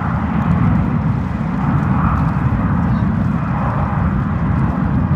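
Jet airliner engine noise: a loud, steady, deep rumble with a fainter higher hiss above it.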